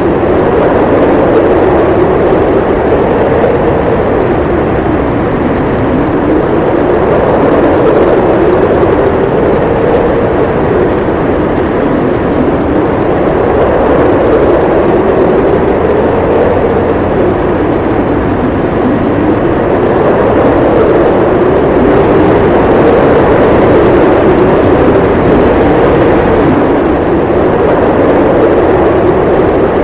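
Howling wind of a winter snowstorm blowing steadily and loudly, its pitch slowly rising and falling every few seconds.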